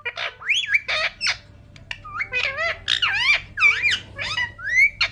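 Pet parrot squawking and chirping close to the microphone: a quick series of short, sharply rising and falling calls, pausing briefly about a second and a half in before a denser run.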